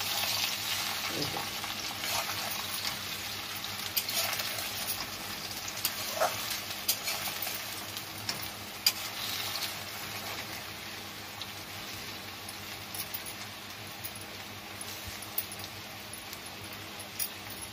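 Sliced potatoes sizzling in oil in a steel kadai, with a flat spatula scraping and clicking against the pan as they are turned. The sizzle eases off gradually.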